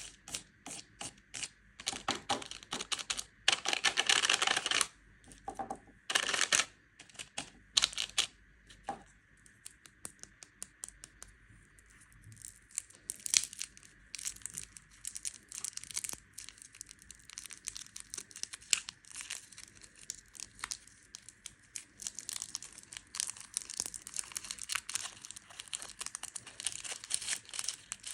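Plastic candy wrappers being crinkled and torn open by hand: dense crackling and rustling, with several longer, louder bursts of tearing in the first seven seconds and quicker crackles after.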